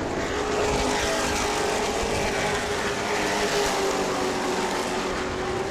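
Pack of Pro Truck race trucks running at speed, several engines at high revs blending into one steady sound.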